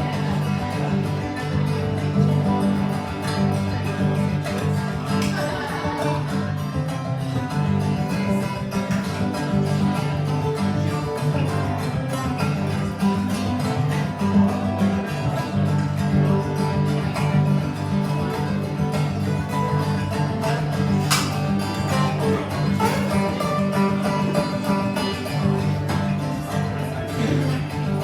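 Acoustic guitar played continuously in an instrumental passage, with no singing.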